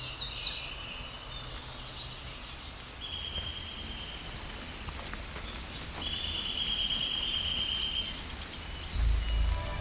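Wild birds calling outdoors: scattered high chirps and two long, even trills, one about three seconds in and one about six seconds in, over steady outdoor background noise. A low rumble swells near the end.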